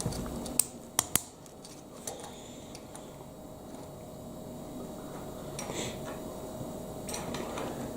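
Plastic Lego Technic pieces being handled and fitted together: a few sharp clicks about a second in, then fainter ticks and soft rustling of parts, over a faint steady hum.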